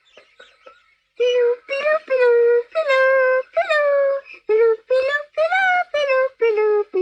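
A high child's voice singing a simple tune in a run of short held notes, starting about a second in, with faint bird chirps before it.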